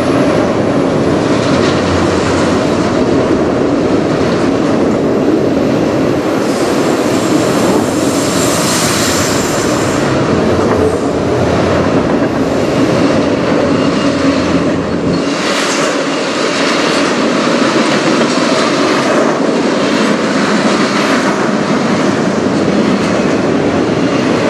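CPKC freight train of autorack cars and double-stack container cars rolling past below: a steady, loud rumble and rattle of steel wheels on rail. The deepest part of the rumble drops away about fifteen seconds in.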